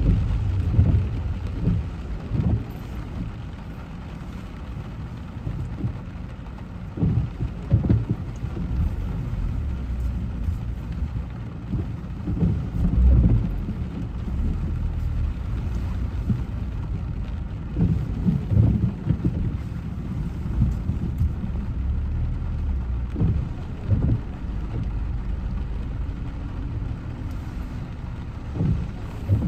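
Car driving on wet roads in rain: a steady low road rumble with several louder low swells every few seconds.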